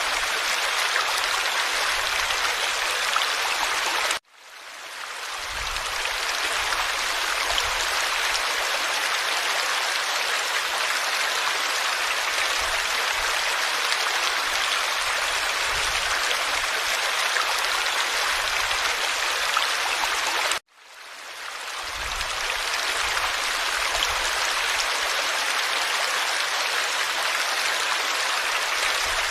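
Forest stream flowing steadily, a constant rushing babble of water. The sound cuts out abruptly twice, about four seconds in and again about twenty seconds in, each time fading back in over a second or so.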